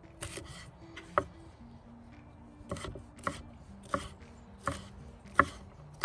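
Kitchen knife chopping vegetables on a cutting board: a series of separate sharp knocks, about seven or eight, mostly under a second apart.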